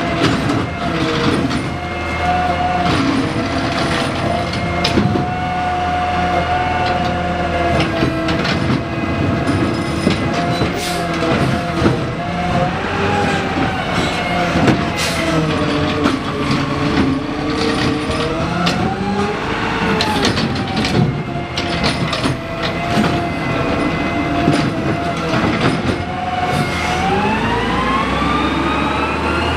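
Garbage truck working: engine and hydraulics running with a steady whine that dips and rises, over frequent metallic clanks. Near the end the engine revs up and the whine climbs steeply.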